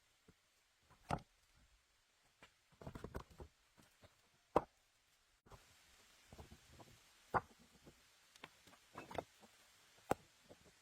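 Irregular sharp knocks and taps, a quick cluster about three seconds in and the loudest single knock about a second later, as of hard materials being handled and set down.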